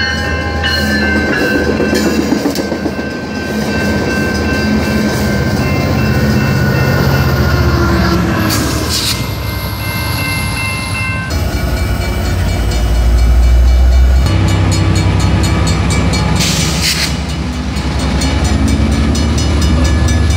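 Train running past: a steady low engine hum with the rolling of railcars and several steady high squealing tones. The sound changes abruptly twice, about 11 and 14 seconds in.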